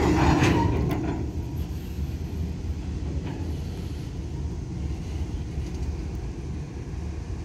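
Train of grain hopper wagons being shunted, a steady low rumble with a short burst of metallic clanks and a brief squeal in the first second.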